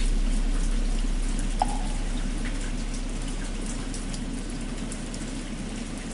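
Steady rain with scattered drops, under the low hum of a large temple bell slowly dying away. A single light knock about a second and a half in.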